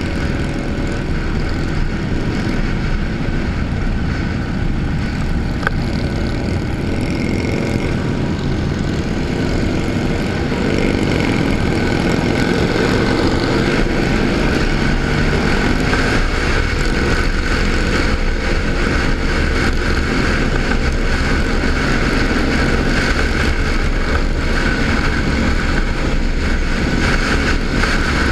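Motorcycle engine running steadily over a constant rumble, its pitch rising and falling a few times around the middle.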